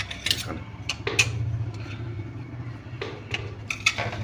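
A steady low hum with a series of short, sharp clicks and knocks scattered over it.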